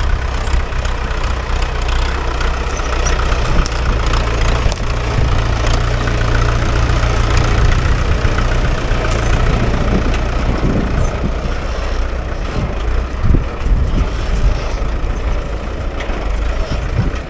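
Mahindra 575 DI tractor's four-cylinder diesel engine running steadily, with a few knocks and rattles in the second half.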